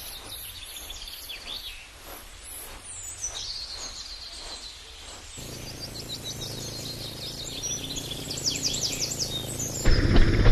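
Small birds chirping, many short high falling calls over an outdoor background hiss. Near the end a loud low rumble comes in abruptly.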